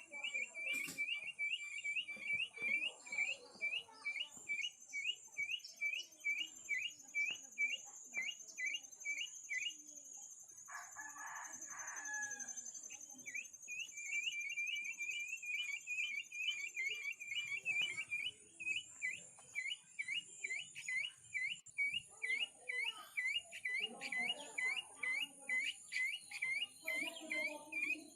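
A rooster crows once, about ten seconds in, a single call of about two and a half seconds. Around it runs an even series of sharp high chirps, about three a second, over a steady high insect hiss.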